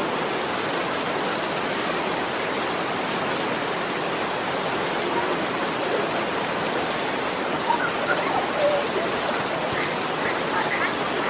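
Heavy rain pouring steadily, an even hiss that holds at one level. A few faint voices come through in the second half.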